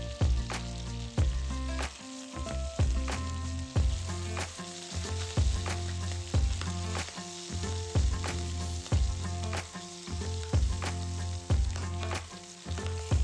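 Food sizzling as it fries in a skillet, an even hiss, under background music with a steady beat and no singing.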